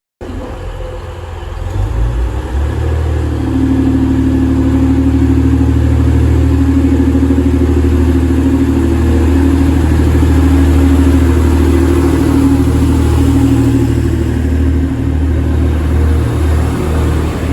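A train's engine running under power: a low drone that builds up about two seconds in, with a higher steady tone on top, then holds steady.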